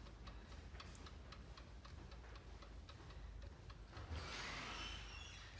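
Hand ratchet clicking at an even pace of several ticks a second as flywheel bolts are run in, followed by a short rustling noise about four seconds in.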